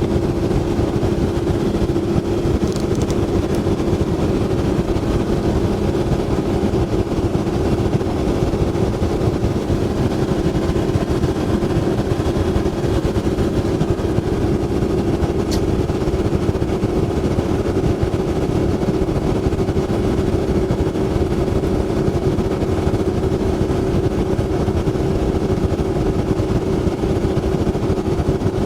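A boat's motor running at a steady speed, a constant drone with rough rushing noise underneath. A brief click about 15 seconds in.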